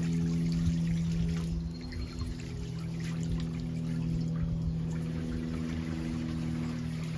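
Water from a 12W solar fountain pump spraying up and pouring back down into the water, under a steady low hum.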